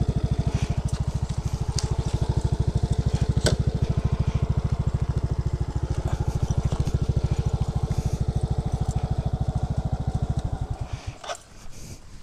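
Small motorcycle engine idling with an even low chugging beat, then slowing and cutting off about eleven seconds in as it is switched off.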